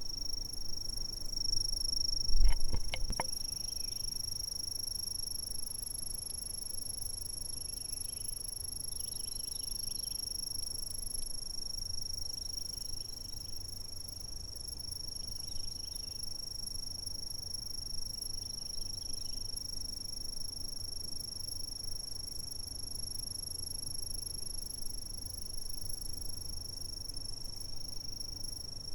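Insects chirping in one continuous, even high-pitched trill, with fainter calls now and then lower down. About two and a half seconds in there is a brief low thump with a few clicks.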